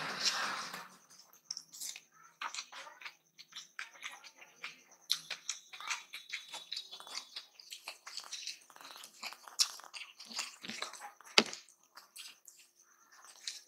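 Close-up eating sounds: wet chewing and mouth clicks of rice with dal and mooli bhujiya, mixed with the soft squelch of fingers working rice on the plate. A sharper click shortly before the end is the loudest sound.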